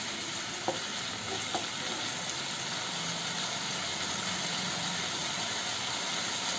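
Mixed vegetables and paneer sizzling steadily in a non-stick kadai over a high gas flame, with two light knocks of the wooden spatula within the first two seconds.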